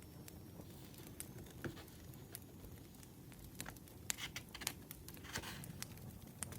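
Firewood burning: scattered sharp crackles and pops over a low steady hiss, with a brief soft rustle about five seconds in.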